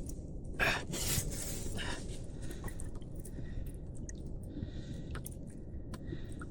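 Steady low rumble of wind and sea on the microphone out on the open ocean. A few brief hissy sounds come between about half a second and two seconds in, and there are scattered small clicks.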